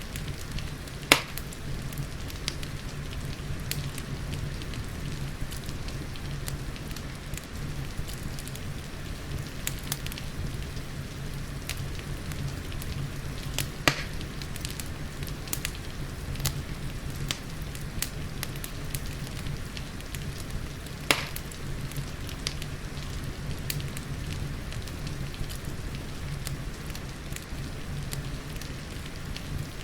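Fireplace crackling with many small snaps and three louder pops, about a second in, near the middle and about two-thirds through, over a steady hiss of rain and a low rumble.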